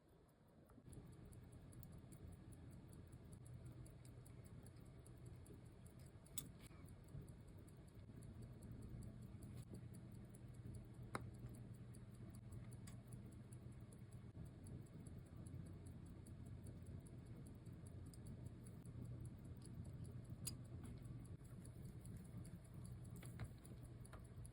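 Near silence: a low steady hum with about four faint, sharp, irregularly spaced clicks.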